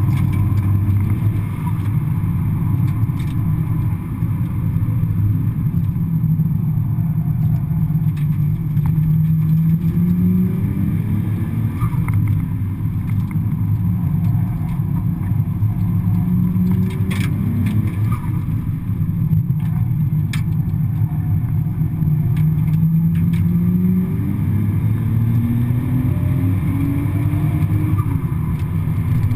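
Nissan Skyline R33 GTS-t's turbocharged RB25DET straight-six under hard acceleration, heard from inside the cabin: the engine note rises with revs several times and drops back at each gear change, over constant road and wind noise.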